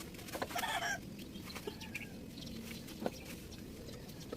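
A chicken clucking, with a short call about half a second in, over low background ambience and scattered small clicks.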